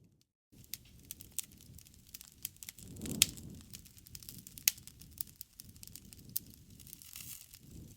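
Campfire crackling: a steady low rumble of burning wood with many small snaps and a few sharp, loud pops, the loudest about three seconds in and another near five seconds. It starts after a brief moment of silence.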